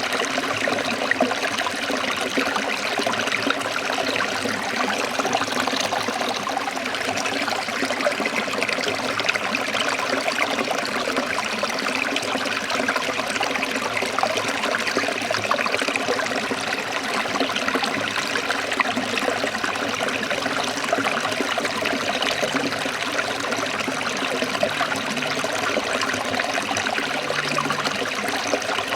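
Forest stream trickling and splashing over rocks, a steady rush of running water.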